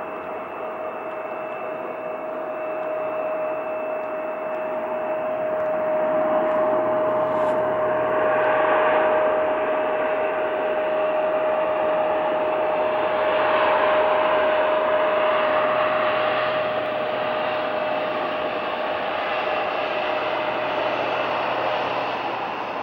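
Airliner engines running at the airport: a steady whine over a broad rush. It swells over the first several seconds, holds steady, then cuts off abruptly at the end.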